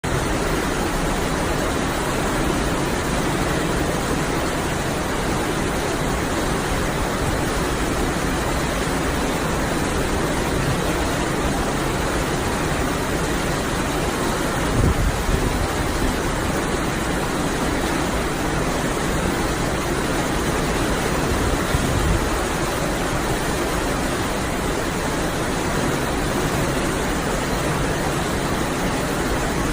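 Steady rushing noise of a boat under way at sea: engine, wind and water blended into one even roar. Two brief low thumps come about halfway through and again about three-quarters through.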